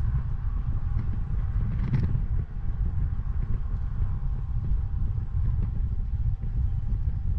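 Wind buffeting the microphone of a bike-mounted 360 camera while riding, heard as a constant, uneven low rumble with a faint steady whine above it.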